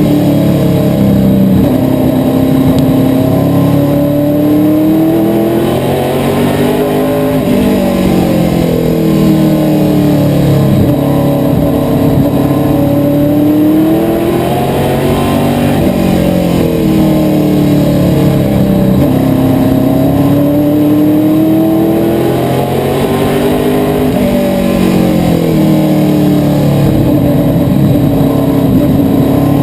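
Asphalt modified race car's V8 engine at racing speed. The revs dip into each turn and climb again down each straight, lap after lap, roughly every eight seconds.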